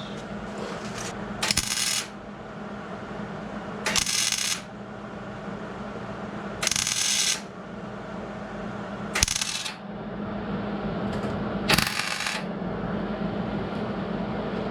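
Welder laying five short tack welds on a sheet-steel patch panel. Each tack is a crackling hiss of about half a second to a second, spaced two to three seconds apart, over a steady low hum.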